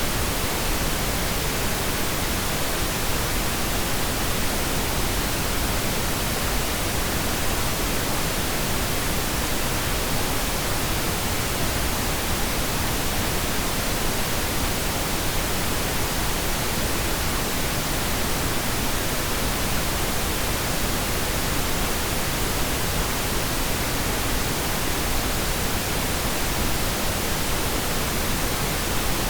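Steady pink noise: an even, unchanging hiss spread across the whole range, with no separate events.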